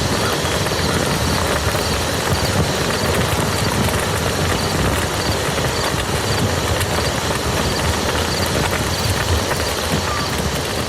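Steady rain falling on a muddy field, an even patter with scattered drop ticks. A faint high chirp repeats about three times a second through most of it.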